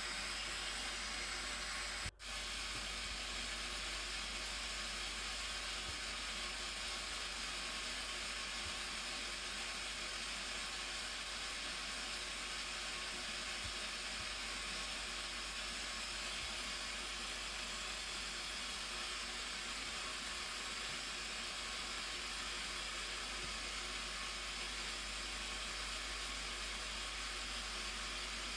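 Steady rush of falling water from the Blue Nile Falls, an even hiss-like noise that drops out for a moment about two seconds in.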